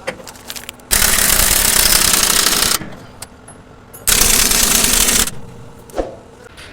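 Pneumatic tool running in two loud bursts, about two seconds and then about one second, with a rapid hammering rattle.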